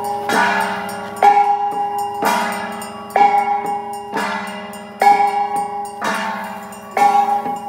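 Temple-procession gongs and cymbals beaten in a steady rhythm of about one stroke a second, each stroke ringing on as the next falls.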